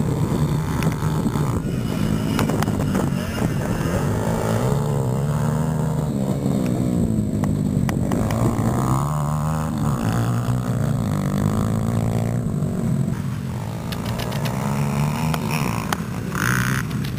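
Small-displacement dirt bike engine running continuously, its pitch rising and falling as the revs go up and down.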